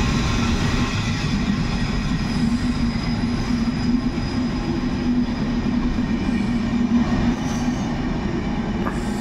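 Passenger coaches of a departing PKP Intercity train rolling past along the platform: a steady rumble of wheels on rails with a steady low hum, the last coach going by near the end.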